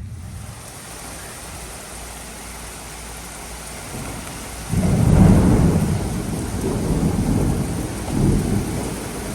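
Thunderstorm: steady heavy rain, then about five seconds in a loud thunderclap that rolls on as a rumble for several seconds.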